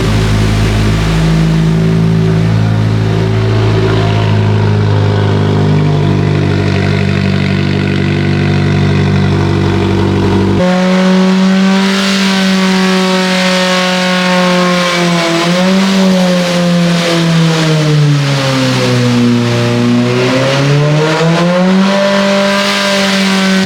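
A car engine running, with a steady note for about ten seconds, then an abrupt change to a higher, wavering note whose pitch sags and climbs back near the end.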